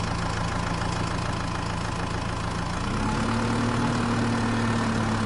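Engine idling steadily, then rising a little in pitch and loudness about three seconds in.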